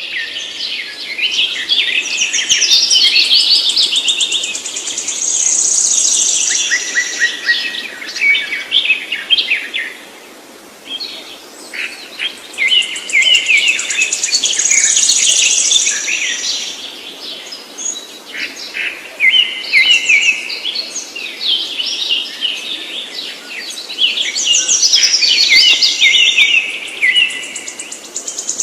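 Small birds chirping and twittering in a dense chorus. The chirping comes in bouts of several seconds, each carrying a high, drawn-out whistle, and the bouts recur about every nine to ten seconds.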